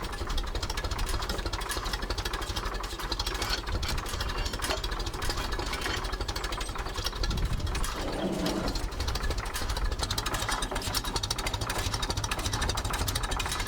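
Ferguson TED 20 tractor's four-cylinder TVO engine idling very slowly and steadily, warmed up and turned down about as low as it will comfortably run, with a fast even beat of firing pulses.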